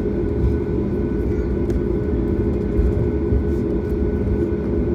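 Inside the cabin of a Boeing 737 MAX with its CFM LEAP-1B engines running: a steady low rumble and hum with a few constant tones, as the jet taxis.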